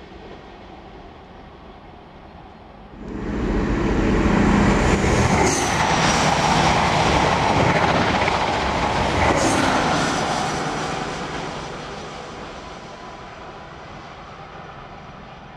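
InterCity express train of Mark 3 coaches passing close at speed: a steady rush of wheels on rail that comes in suddenly about three seconds in and fades away over the last few seconds. Before that, a fainter train sound from a unit moving away.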